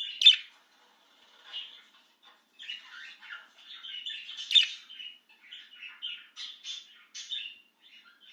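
Budgerigar chattering and warbling in bursts, with two sharp, loud squawks, one right at the start and one about halfway through.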